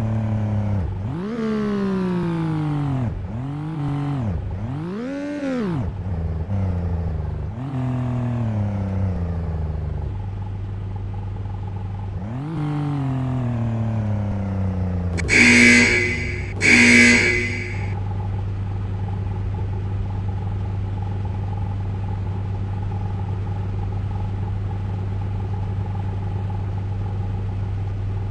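Ryko Radius automatic car wash machine running: its motors whine up and down in pitch several times over a steady low hum. Then come two short, loud blasts about a second apart, and after them a steady hum with a constant tone.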